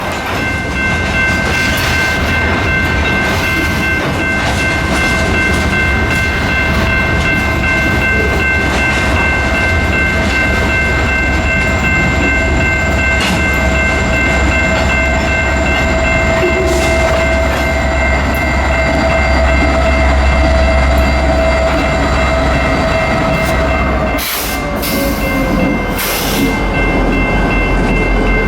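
A train rolling past with a steady low rumble and rail noise. Several steady high tones sound through it, and a lower tone falls away near the end.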